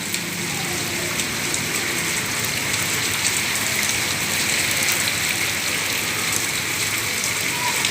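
Very heavy rain falling steadily, a constant hiss with scattered drop impacts on hard surfaces.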